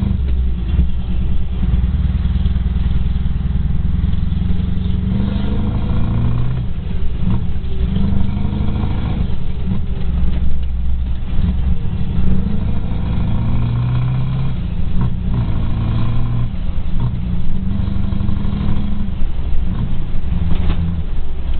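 Scania 164-480 truck's V8 diesel engine running under way, its pitch rising and dropping several times.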